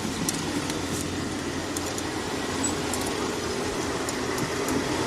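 An engine running steadily, with light ticking clicks over it.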